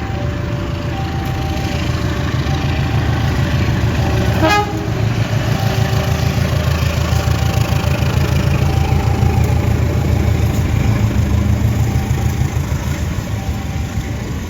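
Level-crossing warning alarm sounding in two alternating notes, about one note a second, over the steady low rumble of a train at the crossing. A short horn toot sounds about four and a half seconds in.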